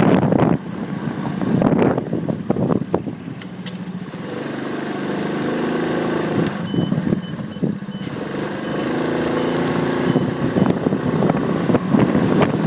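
Motorcycle ride heard from a phone mounted on the bike: wind buffets the microphone near the start and again near the end, and between them an engine hums steadily.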